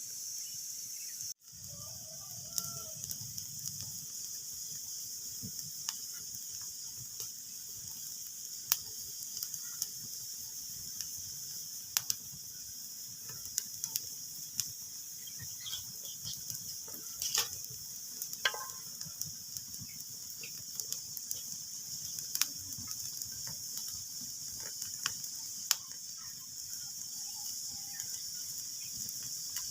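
Wood fire crackling in a fireplace: a steady hiss with irregular sharp pops and snaps, a few of them louder. The sound briefly cuts out once about a second and a half in.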